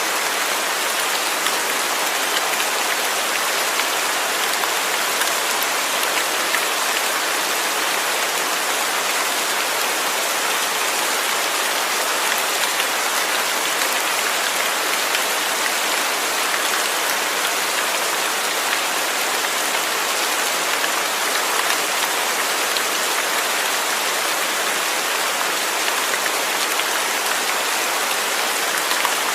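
Steady rain falling on a surface, an even dense hiss with scattered patter of drops.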